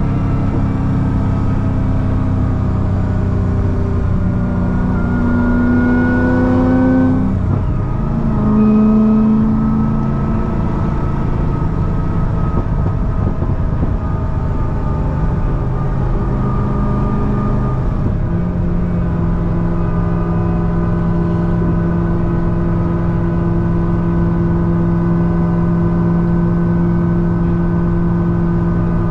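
Supercharged 6.2-litre V8 of a C6 Corvette ZR1 with a Kong 2650 blower, heard on the move. Its pitch rises under acceleration for a few seconds, then drops with a gear change and surges loudest just after. From about two-thirds in it settles into a steady cruise.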